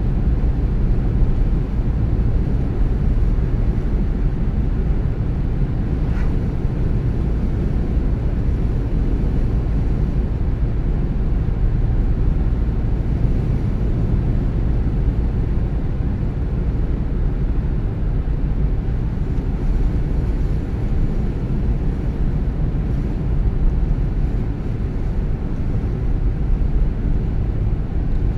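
A car driving at steady speed: an even low rumble of tyres on the road and the engine, with no change in pace.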